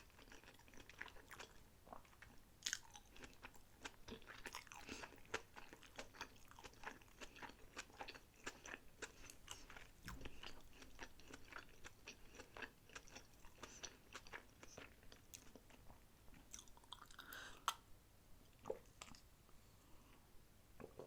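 Close-miked chewing of sushi rolls: a continuous run of small wet mouth clicks and bites, with one sharper click about three-quarters of the way through.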